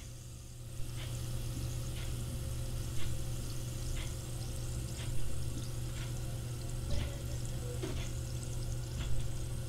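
A drink fizzing in a glass, a steady hiss of bubbles. A clock ticks about once a second over a steady low hum.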